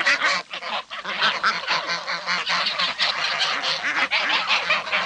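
A group of domestic ducks quacking continuously, many rapid overlapping calls.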